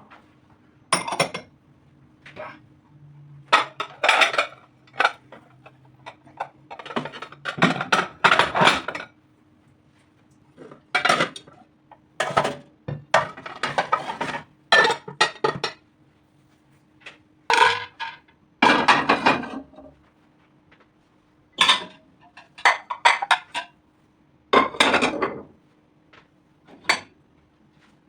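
Kitchen dishes and cutlery being handled: a run of separate clinks and clatters, some in quick clusters, over a faint steady hum.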